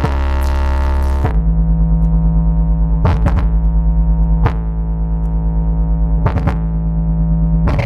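Sound system with twelve subwoofers playing a bass-heavy sound-check track: a held deep synth bass tone that changes note about a second in and wobbles quickly in loudness, with a few short sweeping chirps over it.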